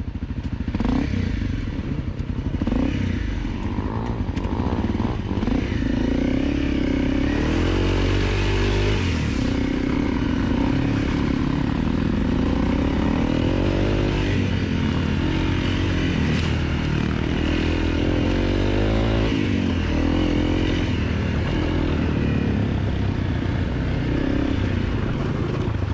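250cc dirt bike engine running under way, its revs rising and falling continually as it is ridden along a rough trail.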